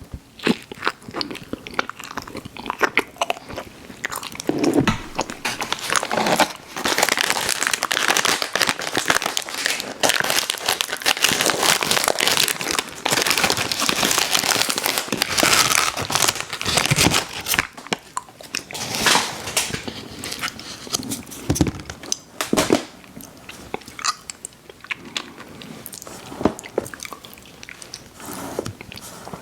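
Close-miked biting and chewing of ice cream sandwiches: a dense run of crackly, wet mouth sounds that thins out after about 18 seconds.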